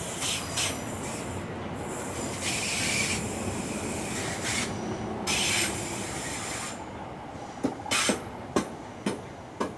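Electric train running on the track, with a few short high-pitched bursts of wheel squeal, then, from about seven and a half seconds in, a run of sharp irregular clacks as the wheels go over track joints.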